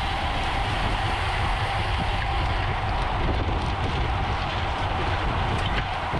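Steady wind rush and road rumble on a bicycle-mounted camera's microphone while riding at race speed, with a faint steady hum and a few light clicks.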